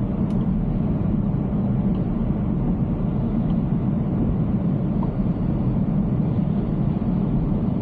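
Steady low rumble of road and tyre noise from a Tesla Cybertruck driving along, with no engine note because the truck is electric.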